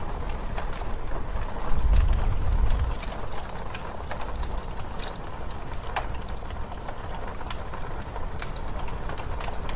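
Wood fire crackling with frequent irregular sharp pops, over a low rumble of blizzard wind that swells briefly about two seconds in.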